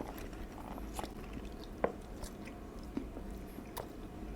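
Mouth chewing a bite of fried chicken sandwich with lettuce, tomato and jalapeños, with short crunches about once a second.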